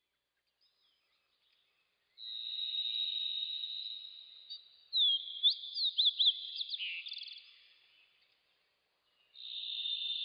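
High-pitched bird chirps and trills in two spells, with a run of quick up-and-down chirps in the middle of the first spell and a short pause before the second.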